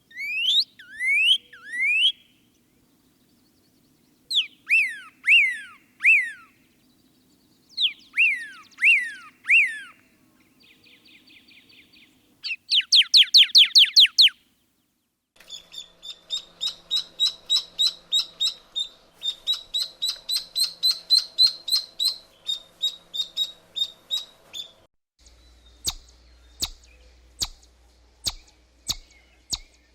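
A series of bird calls. First come short groups of three or four clear notes, each sweeping down in pitch. Then a fast, loud burst of chirps, and a long run of short repeated chirps at about three a second. Near the end it changes to sharp ticks at about two a second.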